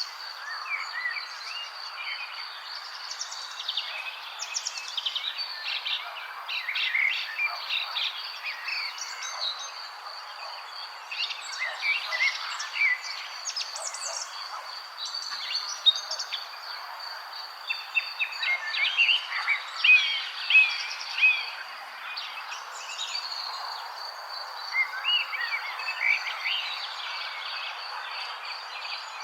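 Several songbirds chirping and trilling in overlapping bursts, over a steady high pulsing trill and a soft even hiss underneath.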